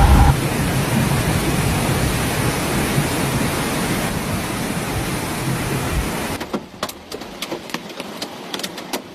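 Heavy downpour of rain and hail, a steady dense hiss. About six seconds in it drops to a quieter stretch of scattered sharp taps, hailstones striking a hard surface.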